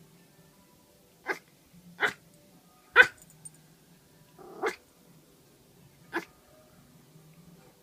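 Dog barking at her own reflection in a mirror: five short, sharp barks at irregular gaps of about a second, the third the loudest, with a low growl running between them.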